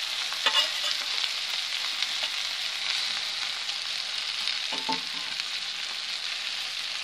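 Vegetables sizzling in hot oil and masala in a steel kadhai while a metal spoon stirs them. There is a steady frying hiss, with the spoon scraping and clinking against the pan now and then.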